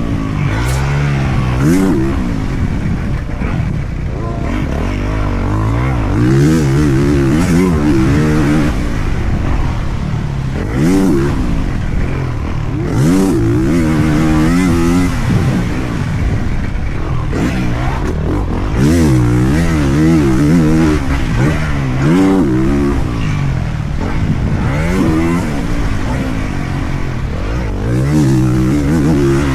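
Dirt bike engine being ridden hard, revving up and dropping back again and again as the rider accelerates and shifts, with its pitch rising and falling every second or two.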